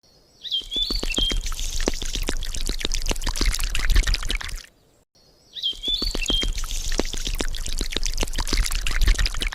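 Liquid pouring and splashing, with many small clicks and a low hum underneath, each stretch opening with a few short high squeaks. The same four-second stretch plays twice, with a short gap of silence between.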